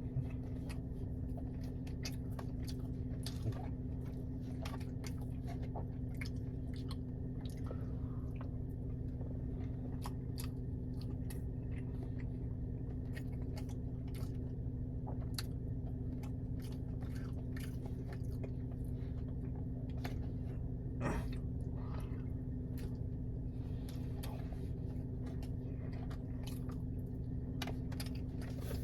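A person chewing and eating close to the microphone, with many small wet mouth clicks and bites and one louder click about three quarters of the way through. A steady low hum runs underneath.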